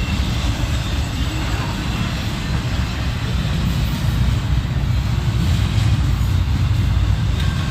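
Kansas City Southern freight train rolling past, its cars making a steady low rumble on the rails.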